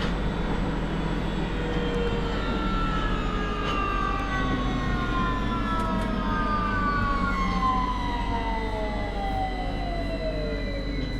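Victoria line 2009 Stock tube train's traction motors whining, their pitch falling steadily as the train slows under braking, over a constant rumble of wheels on rail.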